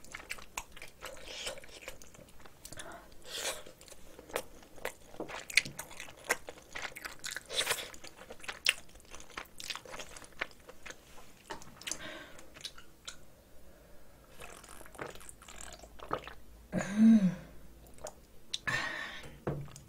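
Close-miked mouth sounds of a person chewing a spoonful of rice mixed with spicy cockle sauce: a string of small wet smacks and clicks, with a brief hum of the voice near the end.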